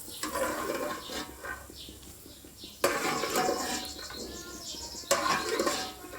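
Fried peanuts being tipped and scraped from the frying pan into a bowl of flattened rice. The sound comes in three rushes of noise, each starting suddenly and fading over a second or two.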